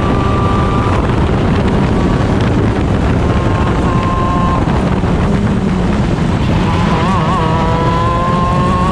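Stock Honda 125 cc two-stroke engine of a shifter kart running at racing speed, heard onboard. About seven seconds in its pitch wobbles briefly, then climbs steadily as the kart accelerates.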